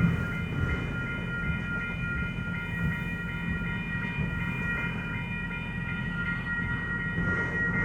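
Freight train cars rolling past, a steady low rumble with rapid wheel clatter, and several steady high-pitched tones ringing over it.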